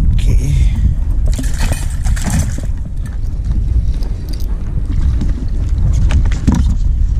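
Wind buffeting the microphone on a kayak at sea, a heavy low rumble throughout. Two short hissing, splashy noises come in the first three seconds.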